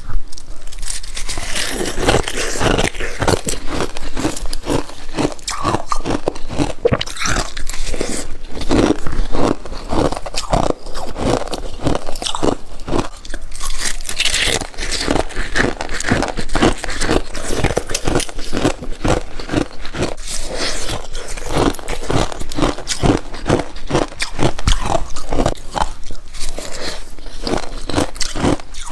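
A person biting and chewing freezer frost close to the microphone: a continuous run of crisp, rapid crunches with no pauses.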